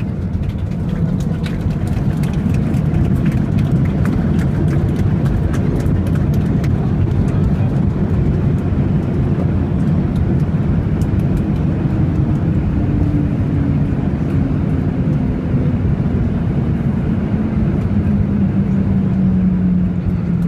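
Boeing 737-800 heard from inside the cabin during the landing: a loud steady roar of the jet engines and rushing air, with light rattling clicks in the first half and a tone that slowly falls in pitch over the second half as the aircraft slows.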